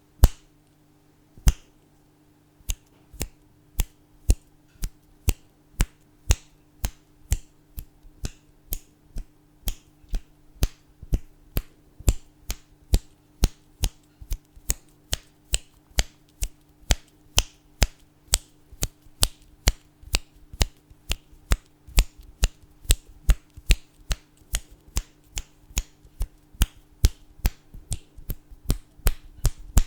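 Fingers snapping, close up: two spaced snaps, then a steady run of about two to three snaps a second that quickens slightly toward the end. A faint steady low hum lies underneath.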